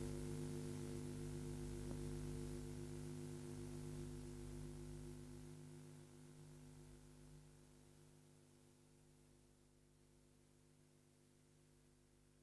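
A steady low hum made of several held pitches, fading away over about ten seconds to a faint hiss.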